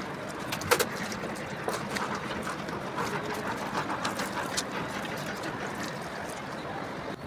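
Sharp metallic clicks and knocks from hands-on work on an engine, the loudest about a second in, over a steady hiss.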